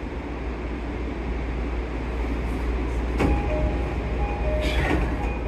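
Low steady rumble of a JR East Kawagoe Line electric train, then from about three seconds in the door chime's repeating two-note electronic tone, the signal that the doors are about to close.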